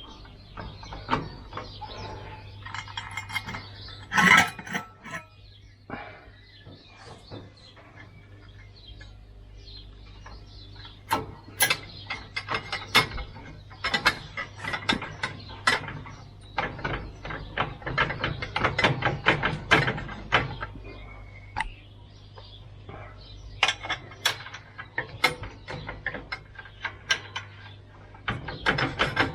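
Hand tools working on metal mower parts: many irregular clicks and clanks, over a steady low hum.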